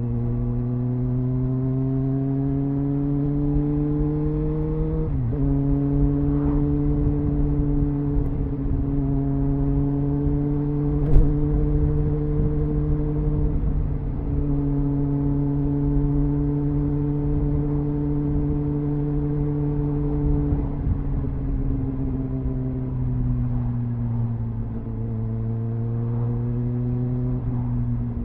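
Triumph Speed Four's 599cc inline-four on its stock exhaust, heard onboard while riding. The engine note climbs, drops sharply about five seconds in as the bike shifts up, then holds steady. It eases off after about twenty seconds and climbs again near the end. There is one sharp click about eleven seconds in.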